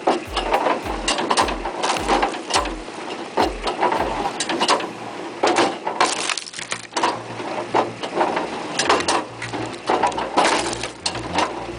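Wood cracking and splintering under a wood-processing machine, with a run of sharp, irregular cracks throughout and a machine's engine running beneath. About four seconds in, a low pulsing gives way to a steady hum.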